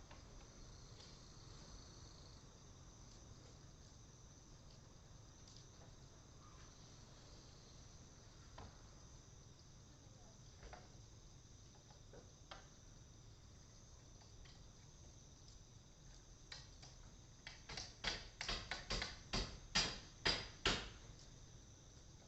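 Crickets and other insects chirring steadily in a summer-evening countryside chorus, with faint scattered crackles from a cedar-wood bonfire. Near the end comes a quick run of about a dozen loud, sharp clicks.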